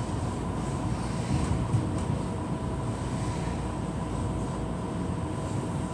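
Passenger train running at speed, heard from inside the carriage: a steady low rumble of wheels on rail, with a faint steady whine over it.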